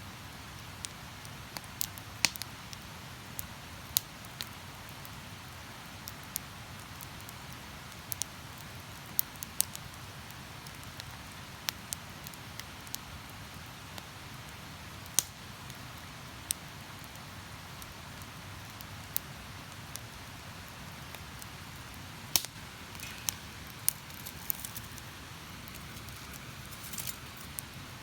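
Wood campfire crackling, with sharp irregular pops and snaps over a steady rush of river water.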